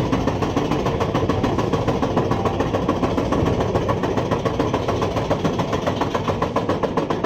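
Roller coaster train climbing the lift hill: a steady, rapid, evenly spaced clatter of the lift chain and anti-rollback ratchet, over a low rumble.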